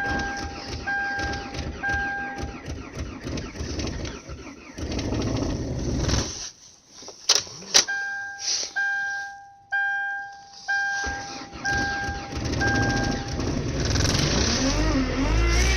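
A 1998 Ford Contour's four-cylinder engine is cranked by the starter in a −15° cold start, while a warning chime dings about once a second. The cranking pauses briefly about six seconds in, then resumes. Near the end the engine catches and runs.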